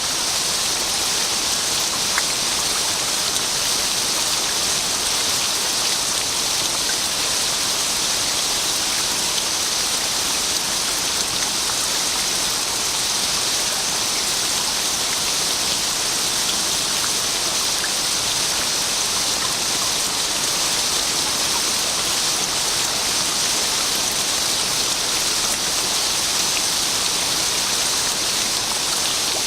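Steady, even rain hiss with a few faint individual drop ticks.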